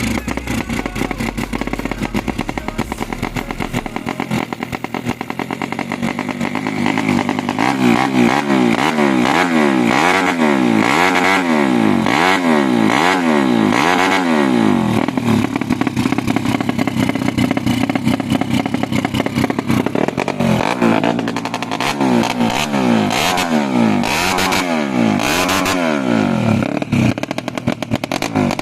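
Tuned Yamaha Jupiter 130 cc single-cylinder four-stroke motorcycle engine running at a steady idle, then revved in quick repeated blips, its pitch rising and falling about once a second, in two runs with a steadier spell between.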